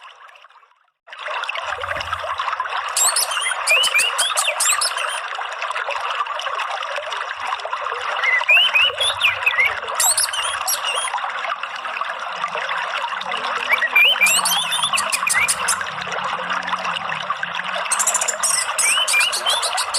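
Steady trickling water, with a songbird's short chirping phrases and rapid high trills repeating about every five seconds. It starts suddenly about a second in, after a brief silence.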